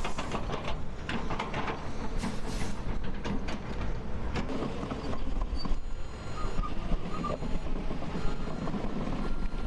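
Heavy snow-clearing machinery at work: engines running with a steady rumble, metal clanks and knocks in the first few seconds, and a reversing alarm beeping in the second half.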